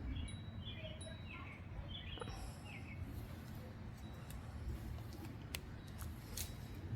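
Backyard ambience: small birds chirping in short calls over the first three seconds, against a steady low wind rumble. A few sharp faint clicks come later.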